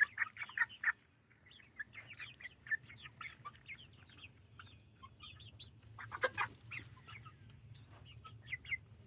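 A flock of chickens clucking, short calls overlapping from several birds, busiest in the first second, with a louder burst of calls about six seconds in.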